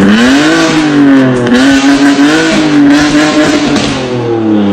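BMW M4 CS twin-turbo straight-six revved repeatedly through its exhaust, the pitch climbing and dropping several times and falling away near the end.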